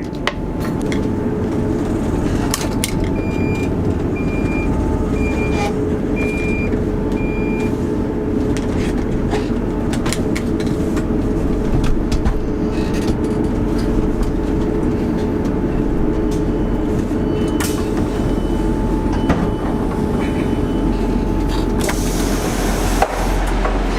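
Train running, heard from inside the passenger carriage: a steady rumble and hum of the moving train. A few seconds in comes a row of about five short high beeps, and a fainter row of beeps follows later.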